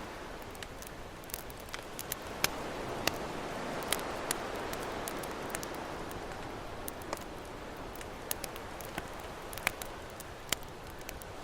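Campfire crackling with sharp, irregular pops over the steady wash of ocean waves, which slowly swells and eases.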